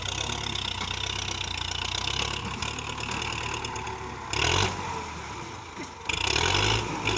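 Tractor engine running steadily with a low rumble, with two louder noisy bursts about four and a half and six seconds in.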